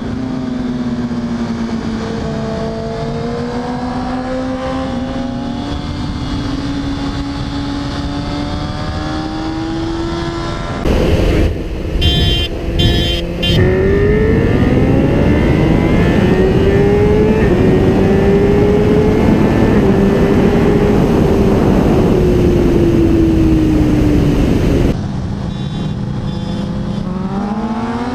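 Onboard sound of inline-four sportbike engines at speed. First a 2004 Yamaha R1 runs at a fairly steady throttle, its note drifting up and down. After a cut, a BMW S1000RR accelerates hard and louder over wind rush, its pitch climbing and dropping back at each upshift, then falling as it eases off. Near the end the R1's note climbs again as it accelerates.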